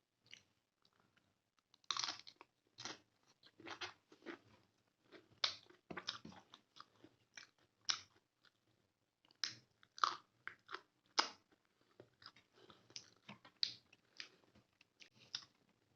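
Close-miked chewing of chicken gravy with plain rice: a steady run of short, irregular mouth clicks and smacks.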